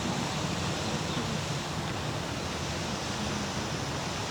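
Steady outdoor ambience: an even rushing noise, with no distinct events standing out.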